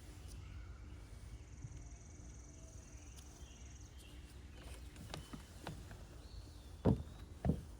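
Outdoor ambience: a faint low rumble, a high steady buzz for a couple of seconds and a few bird chirps, then scattered clicks and two loud thumps about half a second apart near the end.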